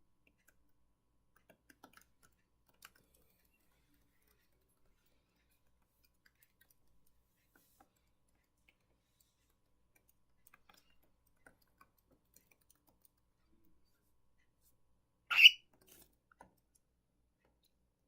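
Pet cockatiel and parakeet moving about: faint scattered ticks and taps, and one short, loud chirp about fifteen seconds in.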